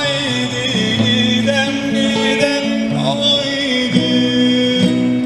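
Turkish folk song (türkü): a male voice singing long, wavering held notes over instrumental accompaniment.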